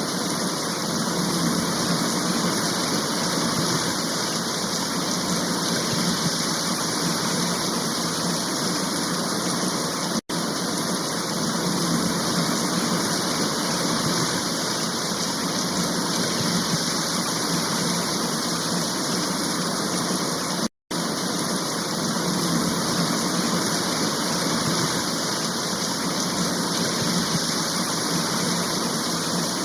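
Water released from Srisailam Dam, falling and rushing in a steady, even roar of water. There are two brief silent gaps, about ten and twenty-one seconds in.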